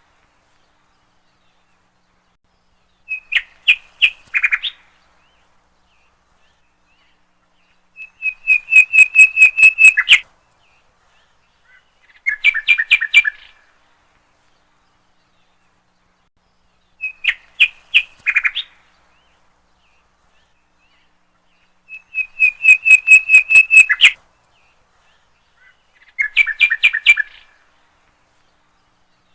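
Bird song: short bursts of rapid, evenly spaced chirps every four or five seconds, with silence between. The same sequence of phrases seems to come round again about every fourteen seconds, like a looped recording.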